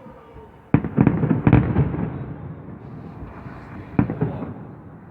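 Victory Day fireworks salute: a sudden volley of loud booms starting just under a second in, the bangs overlapping in quick succession and rolling off into a rumbling echo, then a single boom near the end.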